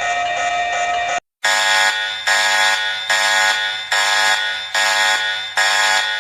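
Emergency-alert alarm tones. A steady, buzzing alarm tone cuts off about a second in. After a brief silence a different alarm starts, a pulsing tone that repeats a little more than once a second, each pulse fading slightly.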